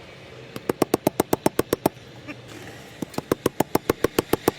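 Rapid sharp knocks, about eight a second, in two runs of a second or so each with a short pause between.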